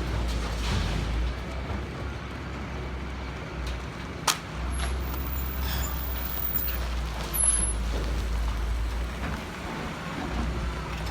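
Heavy vehicle or machine engine running with a steady low rumble, and one sharp click about four seconds in.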